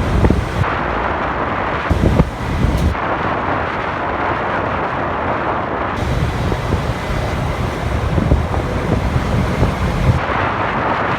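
Wind buffeting the microphone on a moving motorcycle, over engine and road rumble from the bike and traffic. The low rumble swells about two seconds in and again from about six to ten seconds.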